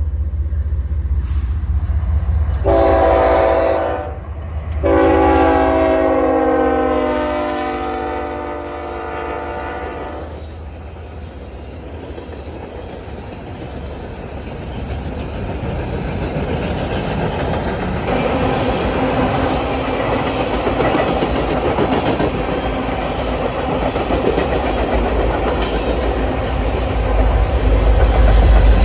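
Norfolk Southern diesel locomotive horn sounding a short blast and then a long one, its chord drifting slightly lower in pitch, as it sounds for the grade crossing. Then the train rolls past, its wheels clattering on the rails, growing louder near the end over a steady low rumble.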